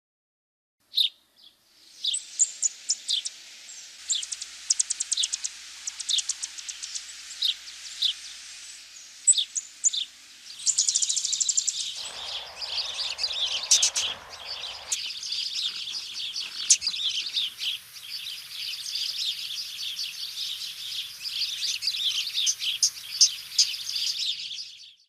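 Many birds chirping and trilling together, short quick high calls that grow into a dense, overlapping chorus. About halfway through, a lower rushing hiss sounds for a few seconds under the birds.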